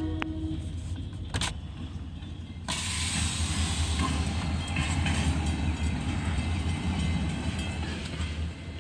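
Train passing: a steady low rumble with the hiss of rail noise, which becomes suddenly louder and brighter about three seconds in.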